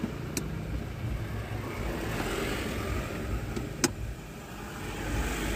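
Car engine running low and steady, heard from inside the cabin while creeping in slow traffic. Two sharp clicks sound over it: a faint one about half a second in and a louder one just before the fourth second.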